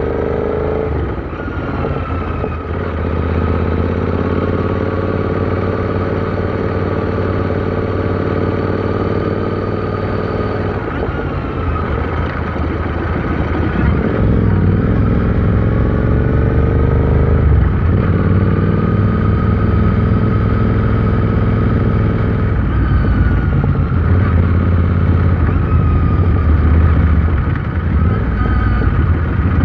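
Royal Enfield Interceptor 650's parallel-twin engine riding on the road. Its pitch climbs under acceleration and drops back at each gear change, several times over.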